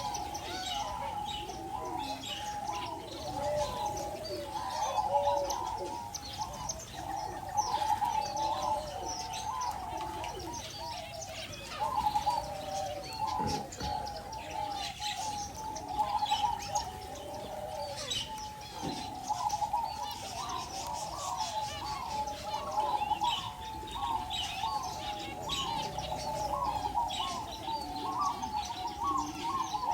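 A crowd of doves cooing over and over without a break, with smaller birds chirping and tweeting in quick high notes above them.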